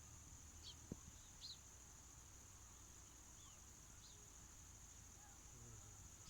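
Faint outdoor nature ambience: a steady high-pitched insect drone with a few short bird chirps, and a soft knock about a second in.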